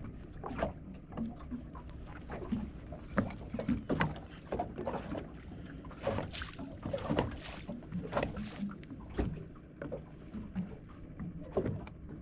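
Irregular knocks, taps and rattles of handling in a small fishing boat, over a steady low rumble of wind and water.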